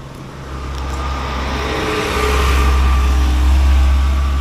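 A road vehicle passing close by: its noise swells to a peak about halfway through and then fades, over a heavy low rumble.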